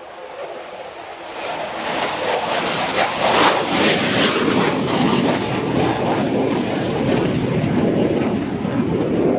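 Fixed-wing aircraft passing close by, its engine noise swelling over the first few seconds to a loud, steady level.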